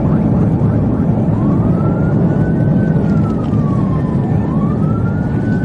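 Police siren wailing in slow rising and falling sweeps: one starts about a second in, the next about four seconds in. Under it is a loud, steady rumble of engine and road noise.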